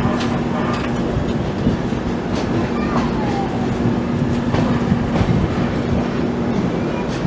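Passenger express train running along the track: a steady rumble with a steady low hum, and scattered knocks and clicks from the wheels and coach.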